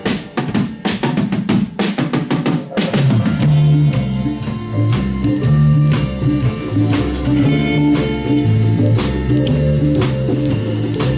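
Blues band playing a 16-bar blues: a busy drum fill for about the first three seconds, then the drums and bass settle back into a steady groove with the other instruments.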